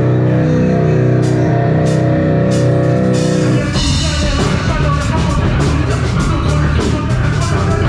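Live metalcore band playing loud: distorted electric guitars, bass and drum kit. About three and a half seconds in, held chords give way to a denser, heavier riff with busier drumming.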